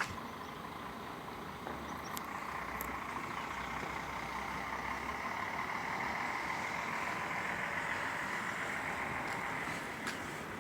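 A vehicle passing: a steady noisy rush that grows louder through the middle and eases off near the end, with a few faint clicks.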